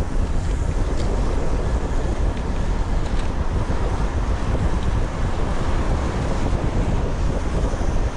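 Wind buffeting the camera microphone while riding a bicycle: a steady rumbling hiss, heaviest in the low end.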